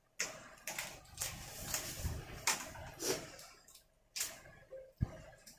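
Close-up eating sounds from a seafood meal: a run of sharp crunching and smacking noises, about two a second, with a dull thump near the end.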